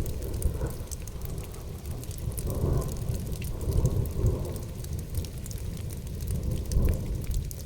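Rolling thunder over steady rain, with fine ticks of individual raindrops. The deep rumble swells in at the start and comes in several waves, strongest around the middle and again near the end.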